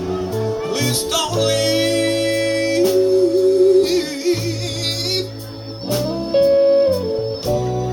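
Live blues-rock band playing an instrumental passage between verses: steady bass and drum hits under a held, wavering lead line.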